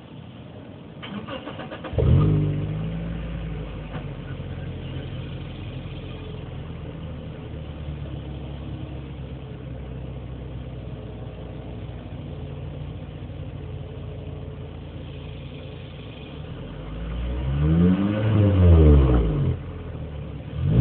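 Toyota Matrix XRS's four-cylinder engine through a Greddy Evo2 aftermarket exhaust: cranked and started about two seconds in with a brief flare, then idling steadily. Near the end it is revved up and down a couple of times and drops back to idle.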